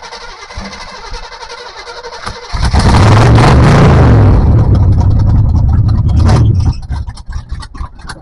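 Off-road 4x4's engine running steadily, then revved hard for about four seconds as the rig climbs rocks, very loud and close, before easing off. Scattered clicks and knocks follow near the end.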